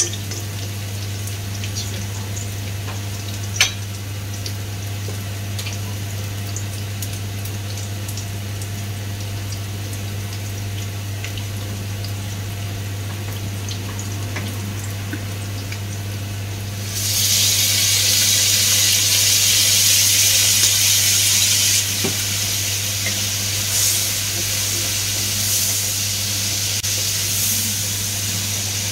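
Chopped aromatics frying in oil in a wok, a light sizzle with small crackles and a single pop, over a steady low hum. About two-thirds of the way through the sizzling hiss suddenly grows much louder, then eases a little a few seconds later.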